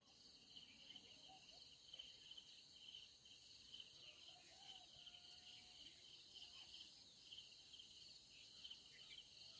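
Faint, steady chorus of crickets trilling, with a few soft bird calls.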